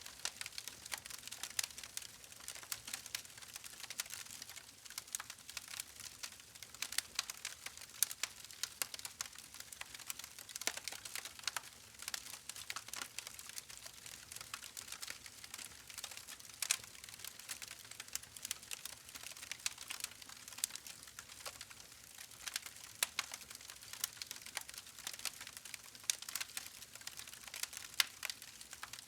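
Wood fire crackling: a steady run of sharp, irregular pops and snaps over a faint hiss.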